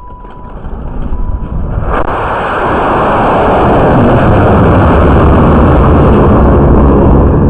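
High-power rocket motor firing. A loud, rushing roar builds over about a second, starting about two seconds in, then holds steady and very loud. A couple of short electronic beeps come before it.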